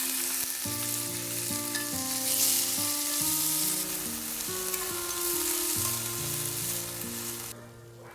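Food sizzling in a hot pan: a dense, steady frying hiss that cuts off suddenly near the end. Background music with a melodic bass line plays underneath.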